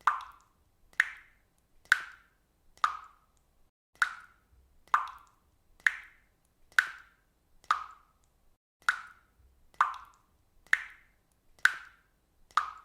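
Water dripping steadily into water at about one drip a second, each drop a sharp plop with a short ringing tone.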